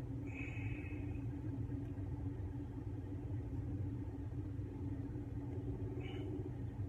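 Steady low mechanical rumble with a constant hum, like a running vehicle, broken by two brief high chirps: one just after the start and one near the end.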